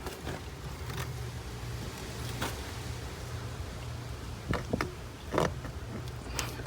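Scattered clicks and knocks of hand tools and plastic plumbing parts being handled during pipe work, several in quick succession in the second half, over a steady low hum.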